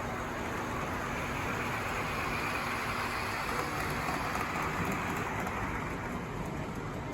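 G-scale model train rolling along its track, growing louder over the first couple of seconds and fading off near the end as it passes.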